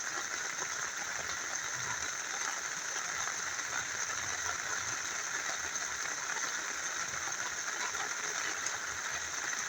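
Rain falling together with a small river flowing: a steady, even rush of water with no separate drops or splashes standing out.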